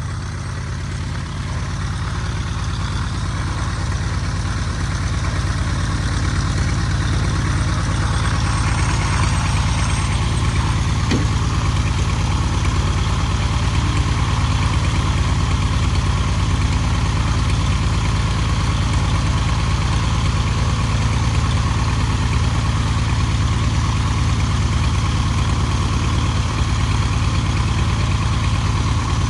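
1948 Cessna 170's six-cylinder piston engine and propeller running steadily, growing louder over the first several seconds as power comes up, then holding steady.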